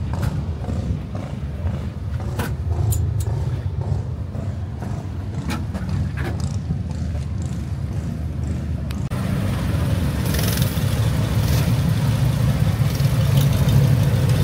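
Vehicle running with a steady low engine and road rumble and a few light clicks. About nine seconds in the sound changes abruptly, becoming louder with more hiss.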